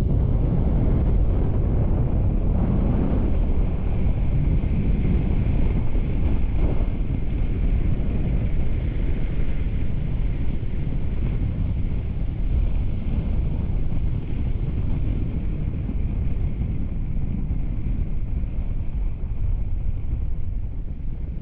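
Wind buffeting the microphone on a moving motorbike: a steady, loud low rumble with a faint steady whine above it.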